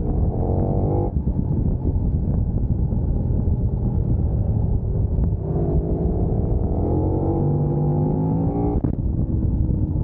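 Sport motorcycle engine accelerating hard. Its revs climb and break off sharply about a second in, then climb again from about halfway and drop suddenly near the end, as at a gear change or the throttle being shut. A heavy low rumble of wind and road noise runs underneath.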